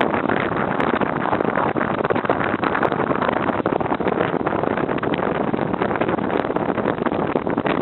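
Motorcycle running at a steady pace, its engine and rushing noise loud and unbroken.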